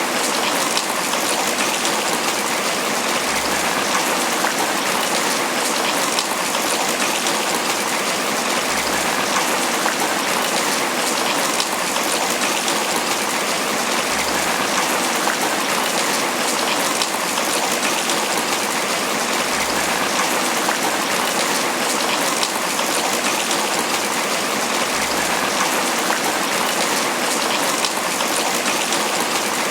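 Steady tropical rain falling on banana leaves, an even, unbroken patter.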